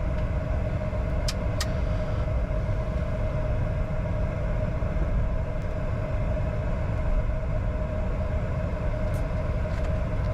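Cockpit noise of a Bombardier Challenger 605 taxiing at idle power: a steady rumble with a constant hum. Two light clicks come a little over a second in, and another near the end.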